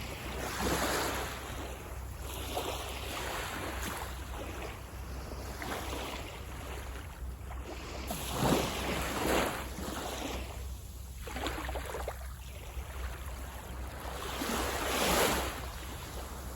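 Sea waves breaking and washing up a beach in repeated swells, the loudest breaks about halfway through and near the end.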